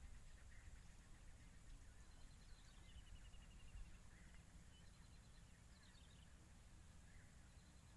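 Near silence: faint bird calls, including a short run of quick, evenly spaced high notes about three seconds in, over a low steady background rumble.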